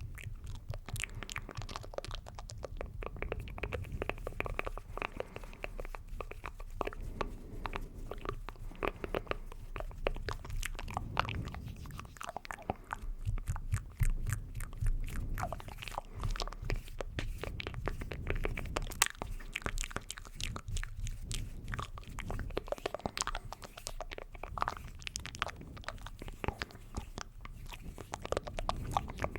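Close-up ASMR mouth sounds: a continuous, irregular stream of quick clicks and smacks, made close to the microphone.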